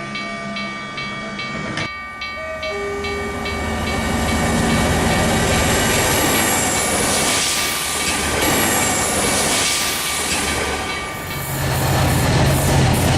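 Train sound effect: rail rumble and rattle that swells about four seconds in and stays loud. Before it, a short stretch of regular ticking over steady tones.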